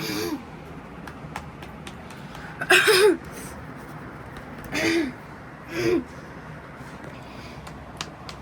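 A person's short wordless vocal sounds: four brief hums or murmurs, the loudest about three seconds in, with a few light clicks over a steady background hum.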